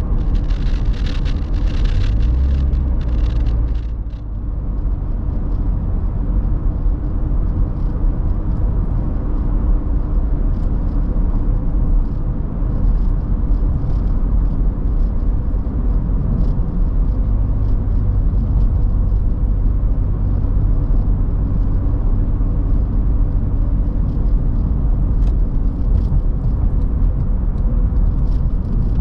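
Toyota 86's 2.0-litre flat-four engine running steadily through an HKS aftermarket exhaust, a low steady rumble. Extra hissy noise rides on top for the first four seconds or so, then the sound stays even.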